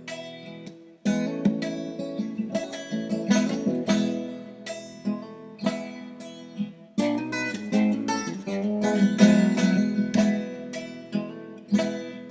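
Acoustic guitar playing an instrumental passage of plucked notes and chords, with no singing.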